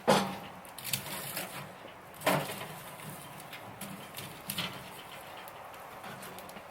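Two sharp knocks about two seconds apart, with lighter clicks and clatter between them.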